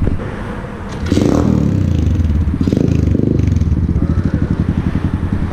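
Dirt bike engine running, pulling harder and louder about a second in, then holding steady.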